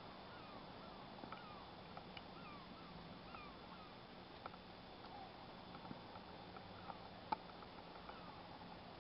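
Faint, distant birds calling over a calm sea: short slurred notes repeating about twice a second over a soft steady hiss. A single sharp click about seven seconds in.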